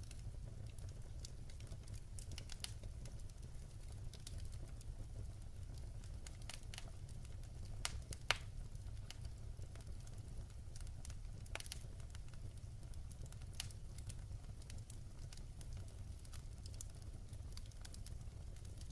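Wood fire burning in a fireplace: scattered crackles and pops over a steady low rumble, with one sharper pop a little before halfway.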